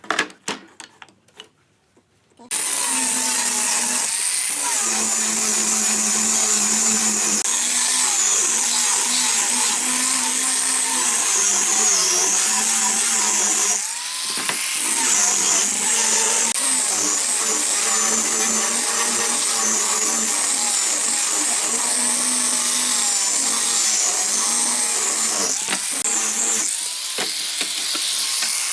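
Electric power tool running steadily for a long stretch, its pitch wavering. It starts after a couple of seconds of a few faint clicks and dips briefly about halfway through.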